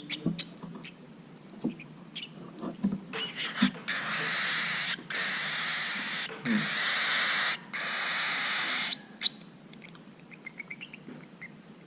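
Baby cockatiel giving harsh, raspy, hiss-like calls, about four in a row of roughly a second each, with short chirps and clicks between them and a quick run of small ticks near the end.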